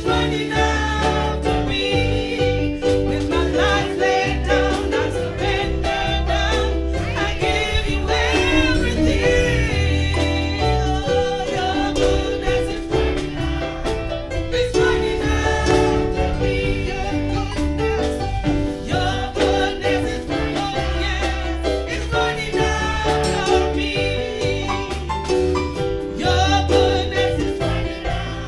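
Gospel music from a band with a heavy bass line and keyboard, with a wavering lead voice over it.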